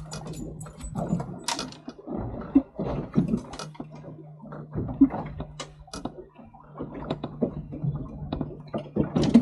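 Fishing reel being wound in against a hooked fish: irregular clicks and small knocks of the reel's mechanism, over a steady low hum.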